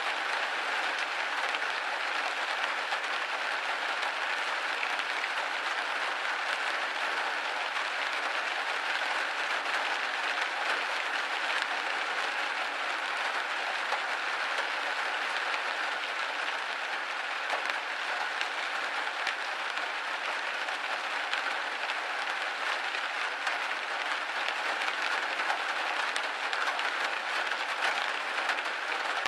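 Steady rain pattering on a window pane: a dense, even hiss of many small drop ticks with no low rumble.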